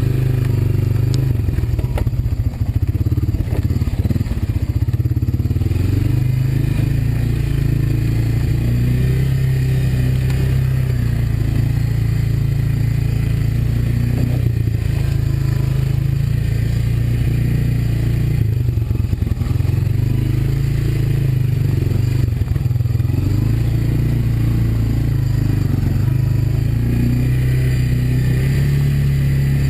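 Single-cylinder Honda ATV engine running while being ridden, its pitch rising and falling with the throttle. A few knocks come about 3 seconds in and again past the middle.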